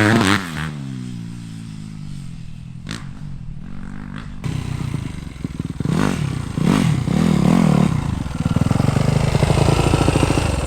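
Four-stroke 250 race dirt bike being ridden on a motocross track: a loud rev falls away in the first second as the bike moves off, then the engine comes back up through several rev changes and grows louder before cutting off suddenly at the end.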